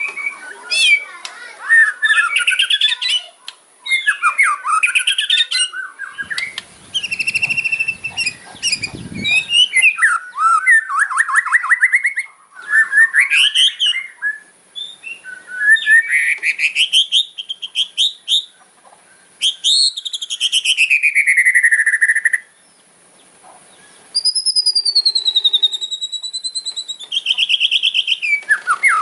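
White-rumped shama (murai batu) singing its loud, aggressive fighting song: phrases of fast, harsh rattling notes (kretekan) mixed with sweeping whistles and trills, with short gaps between phrases and a wavering whistle near the end.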